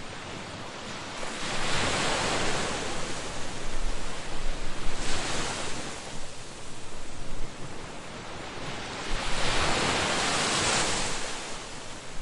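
Ocean waves breaking on a beach: three surges about four seconds apart, each swelling into a wash of surf and fading, over a steady background hiss.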